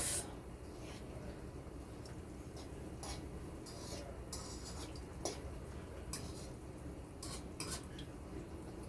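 Kitchen utensils clinking and scraping against a pot and dishes, a handful of short, light knocks spaced a second or so apart over a faint steady background.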